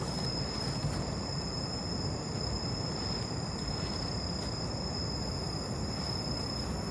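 Steady background noise with a thin, high, steady whine over it. A faint extra hiss joins at the very top about five seconds in.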